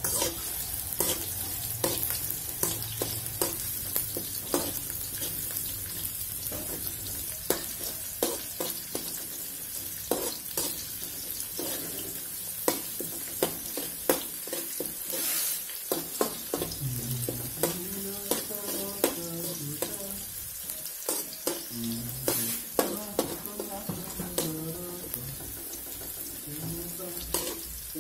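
Sliced shallots and garlic frying in oil in a wok, a steady sizzle, while a spatula stirs them with frequent sharp clicks and scrapes against the pan.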